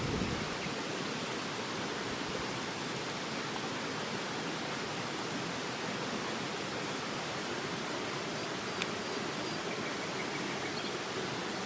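Steady rushing of river water, with a single faint click about nine seconds in.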